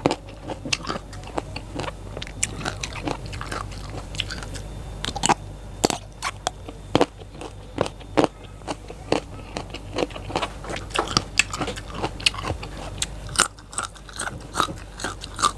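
Close-up crunching and chewing of raw lalapan vegetables: many crisp, irregular bites and crunches, several per second, with wet chewing between them.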